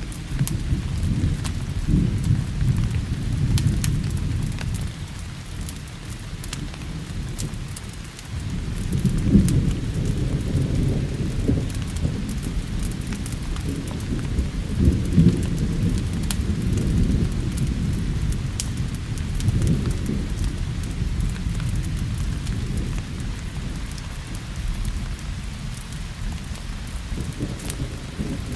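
Steady rain with long, rolling thunder that swells and fades several times, under scattered sharp ticks.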